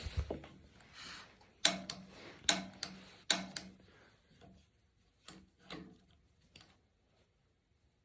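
Piezo igniter on a gas water heater's pilot assembly being pressed over and over, giving a string of sharp, irregular clicks while the pilot is held down to light it.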